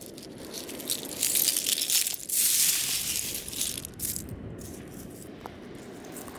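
Seashells rattling and crunching together, a dense crackle with two louder bursts about one and two-and-a-half seconds in.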